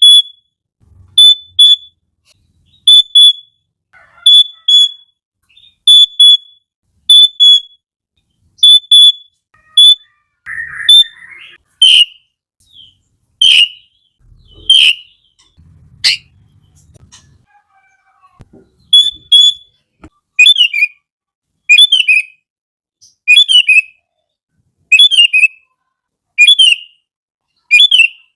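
Sooty-headed bulbul calling over and over: pairs of short, clear high notes about every second and a half, a few louder sweeping notes midway, then a run of short falling phrases at the same steady pace.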